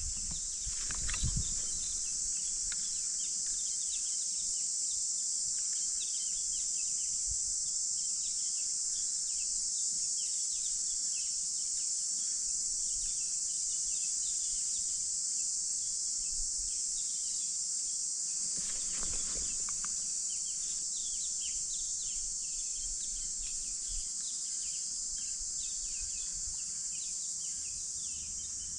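Steady high-pitched insect chorus with many short bird chirps over it, and a brief rustle about two-thirds of the way through.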